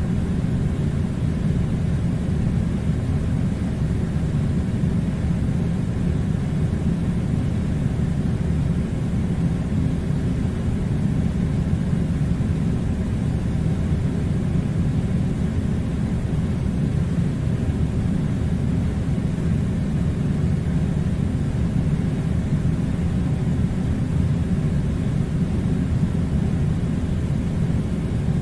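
Air conditioner running: a steady, unchanging low rumbling hum with a faint hiss above it.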